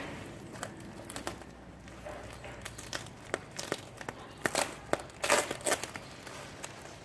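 Packaging crinkling and tearing in irregular crackles as a motorcycle exhaust is unwrapped, loudest in a cluster near the end.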